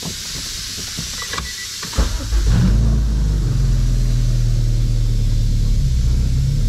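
B16A2 four-cylinder engine in a Honda Civic, fitted with a big-tube race header, starting up about two seconds in and then idling steadily.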